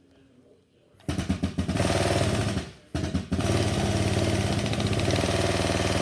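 Pump of a pedal-operated exhaust pipe expander starting up about a second in and running with a fast, even pulsing, cutting out briefly near the middle, then running on steadily.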